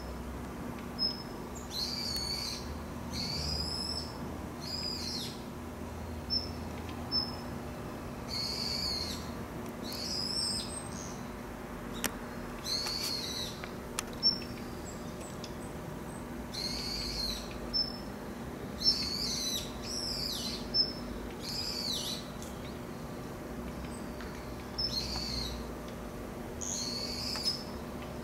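Birds calling: scattered sharp high chirps and short arched whistled notes, sometimes several in quick succession, over a faint steady hum.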